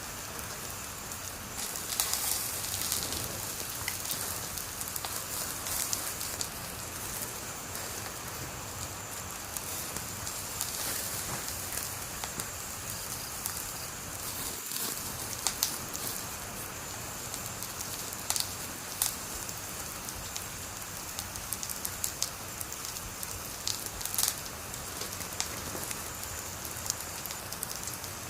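Wood fire burning, a steady hiss broken by frequent sharp crackles and pops, a few of them louder than the rest.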